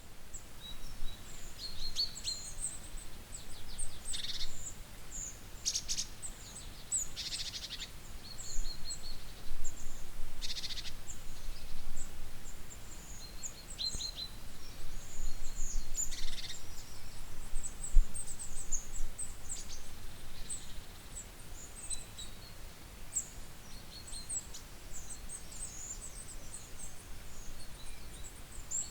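Small birds chirping and calling with high, short notes throughout, broken by a few brief rapid series of sharp notes, plus one low thump about two thirds of the way through.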